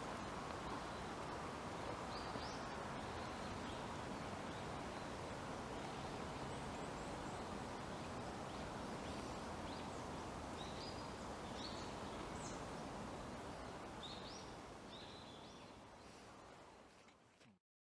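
Steady outdoor forest background noise with scattered short, high chirps from small birds, fading out near the end.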